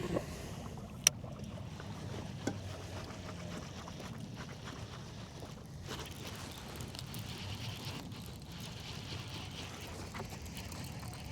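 Steady low noise of wind and water around a kayak, with one sharp click about a second in and a fainter one about two and a half seconds in.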